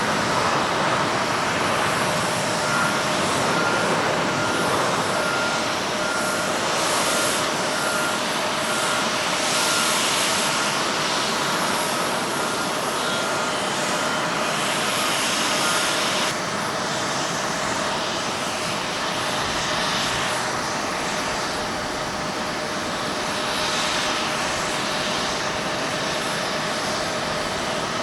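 Jet airliner's engines, a steady loud rush of jet noise with a thin whine running through it; the noise eases slightly about halfway through.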